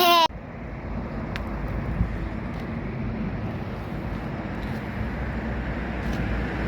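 Steady low rumble and hiss of wind on the microphone outdoors, with a couple of faint clicks.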